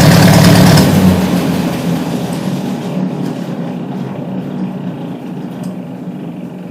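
Ford NAA Jubilee tractor's four-cylinder engine running loud while it drives the drawbar mower through the PTO on a test run. About a second in the sound drops off and keeps fading as the run slows down, while the engine goes on running low.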